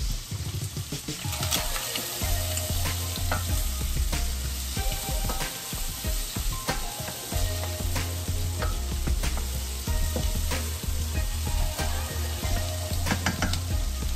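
Sliced onions and bell peppers sizzling in oil in a stainless steel sauté pan, stirred with a wooden spoon that scrapes and knocks against the pan many times. A low hum comes and goes underneath.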